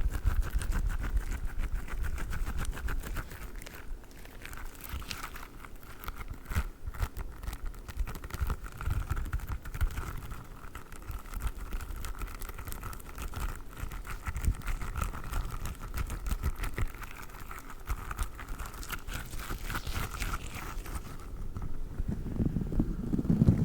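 Squishy durian stress toy squeezed and handled close to the microphone: irregular soft squishing and crinkling with small clicks. A faint steady high tone under it stops near the end.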